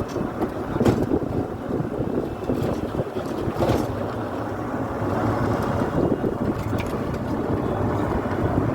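Boat under way on a river: a steady motor and water noise with wind buffeting the microphone.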